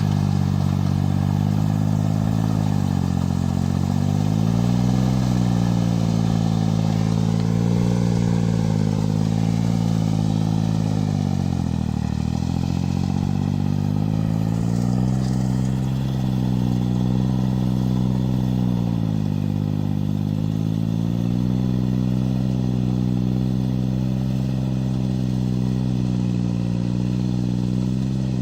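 Kubota 2202 tractor's diesel engine running hard while working, its speed sagging and recovering several times.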